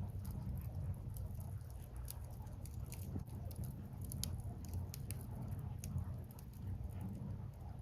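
Wood fire crackling, with many small irregular pops and snaps of burning firewood over a steady low rumble.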